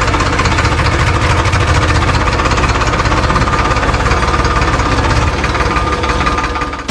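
Small tractor engine running steadily with a rapid, even chugging.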